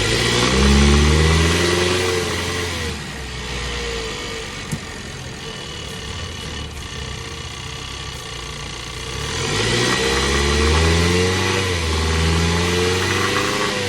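2022 Ford Bronco's 2.3-liter turbocharged four-cylinder engine revving twice: its speed climbs and falls back in the first few seconds, runs low and steady, then climbs and falls again near the end.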